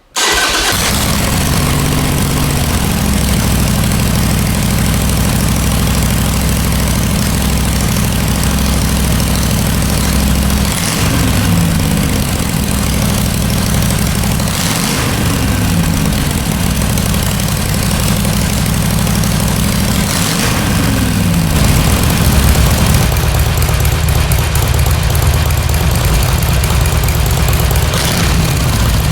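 Harley-Davidson Sportster 883's air-cooled V-twin starting and then idling through North American-spec mufflers with the baffles punched out to 12 mm, giving a deep, heavy exhaust note. The throttle is blipped briefly a few times, the pitch rising and falling each time.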